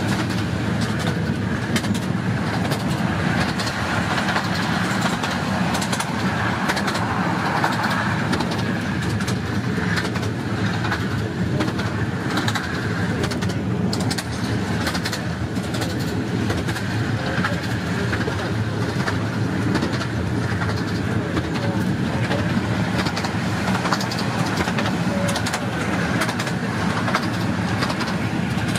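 Romney, Hythe and Dymchurch Railway 15-inch gauge miniature train running along the line, heard from aboard a carriage: a steady noise of wheels on rails with scattered clicks.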